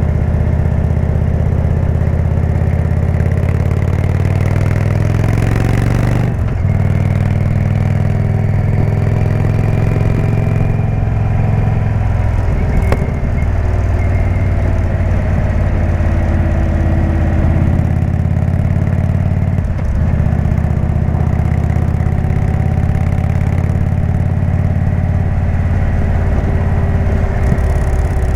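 Indian V-twin motorcycle with a Jekill & Hyde exhaust running under way. Its engine pitch drifts up and down with the throttle, with a brief break about six seconds in.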